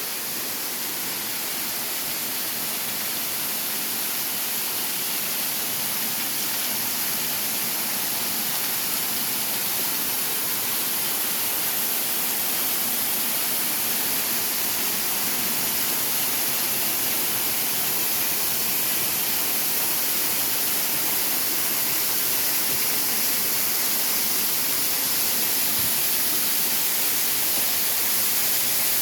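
Steady rushing of a waterfall, an even hiss-like roar with no breaks, slowly growing a little louder.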